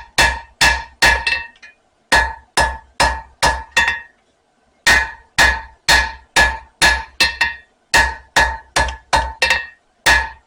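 Hammer blows on an anvil drawing out a bar of hot spring steel, about three strikes a second in runs of several blows with short pauses between, each strike ringing with a clear metallic tone.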